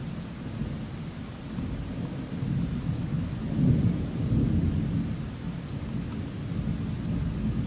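Thunder rumbling during a thunderstorm, swelling to a peak about halfway through and then easing off, with a steady wash of rain underneath.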